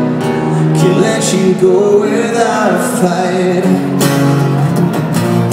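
Live pop-rock band music with strummed acoustic guitar and some singing, between lines of the song.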